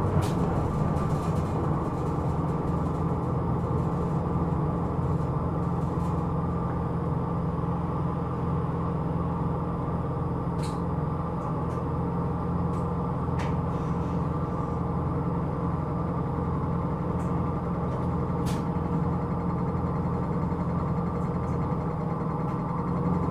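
Hino Rainbow II non-step bus heard from inside while driving at a steady pace: a constant engine and drivetrain drone. A few faint ticks of rattle come through a handful of times.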